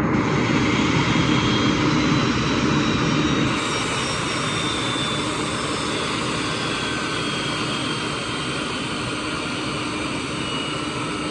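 Boeing 737-400's CFM56-3 turbofan engines running on the ground in a steady jet roar, with a faint whine that slowly falls in pitch. The level drops slightly about three and a half seconds in.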